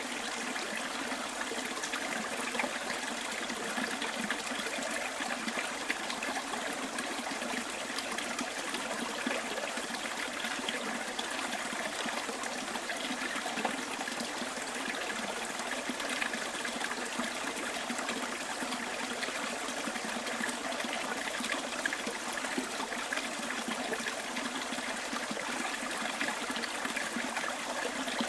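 Small bush stream flowing with a steady, even trickle.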